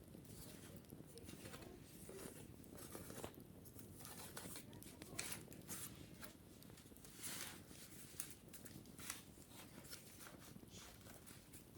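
Faint, irregular scratching and crackling clicks of wicker baskets being handled and scrubbed, over a steady low hum.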